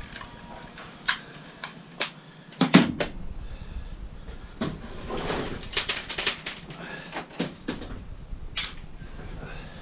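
Scattered knocks, clinks and clatter of scrap being handled and taken apart, with the loudest knocks just under 3 seconds in and a quick run of clinks around the middle.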